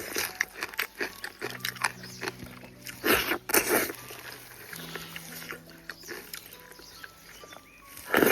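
A person chewing and gnawing on stewed cow trotter, with many quick wet smacking clicks and two louder noisy bursts a little after three seconds in.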